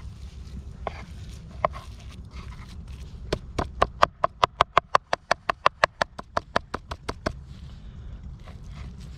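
A run of about twenty quick, evenly spaced knocks, roughly five a second, starting about three seconds in and stopping about four seconds later, over a low steady rumble, with a few single knocks before it.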